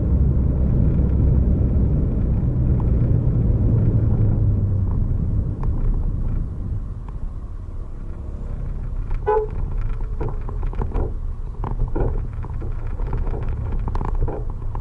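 Vehicle engine and road rumble while travelling. The rumble eases off about five or six seconds in, after which scattered knocks and a brief toot are heard about nine seconds in.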